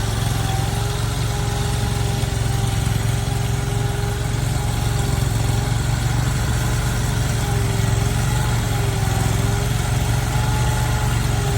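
Engine of a work train's lever-operated crane running steadily with a low hum, a faint whine wavering slightly in pitch above it, as the crane is swung over.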